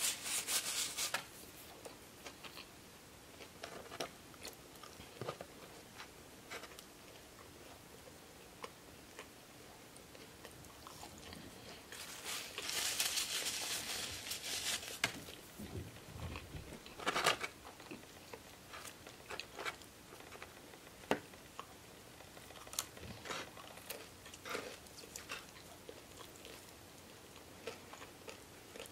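Close-up chewing of fried chicken tenders, with scattered small clicks of mouth sounds. About halfway through, a paper napkin rustles for a few seconds as hands are wiped.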